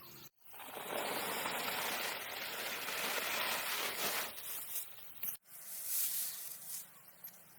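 A steady rushing noise that starts abruptly under a second in and breaks off sharply about five seconds in, then carries on more faintly.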